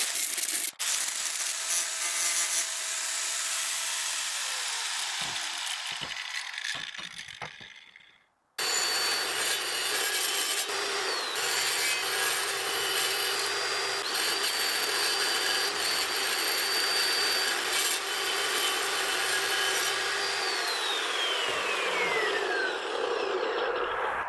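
Chop saw cutting steel bar stock: a loud grinding cut that dies away as the blade spins down. After a break it starts again with a steady high whine, which falls in pitch near the end as the motor winds down.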